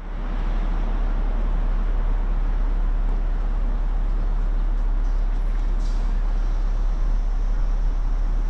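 Steady outdoor city ambience: an even wash of noise over a deep, constant rumble of traffic.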